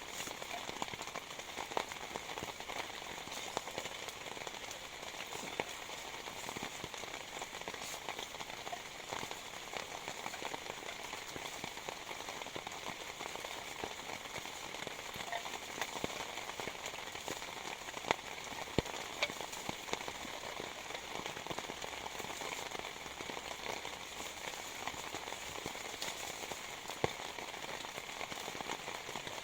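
Heavy rain falling steadily, with many sharp individual drop hits scattered through it and a few louder ones about two-thirds of the way in.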